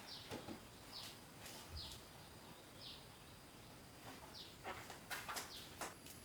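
A bird gives short, high chirps that fall in pitch, about one a second, over a faint steady high tone. A quick run of sharp clicks or knocks comes near the end.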